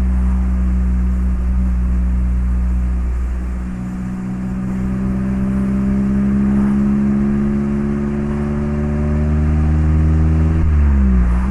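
Mazda MX-5 ND's 1.5-litre four-cylinder engine through an HKS Legamax Sports exhaust while driving: a steady note that dips briefly about 4 seconds in, then climbs slowly in pitch for several seconds and falls quickly near the end.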